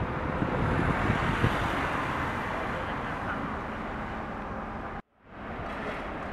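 Outdoor street noise with a motor vehicle or machine running, loudest in the first couple of seconds; the sound drops out abruptly about five seconds in and resumes as a quieter, steady road noise.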